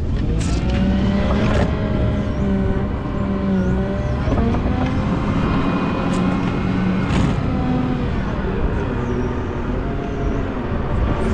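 Diesel engine of a Volvo L90H wheel loader running under load as it pushes snow with a U-plow, its pitch rising and falling with the throttle, with a few short knocks.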